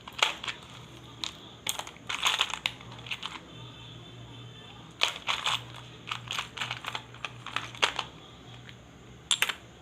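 Small electronic components, loose resistors, being rummaged through by hand: irregular clusters of light clicks, clatter and rustling as the parts are sorted.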